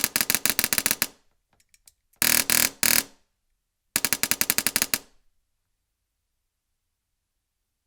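Airsoft replica driven by a dual-solenoid, closed-bolt HPA (high-pressure air) engine firing three full-auto bursts of about a second each, with rapid, even shots at roughly a dozen a second. The middle burst is denser, and a few faint clicks sit between the first two bursts.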